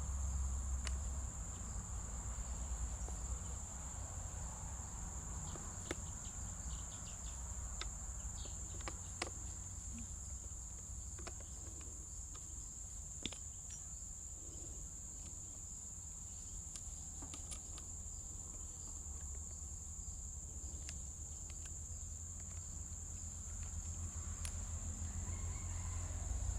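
Insects chirring steadily in one continuous high-pitched drone, over a low steady rumble, with a few faint clicks.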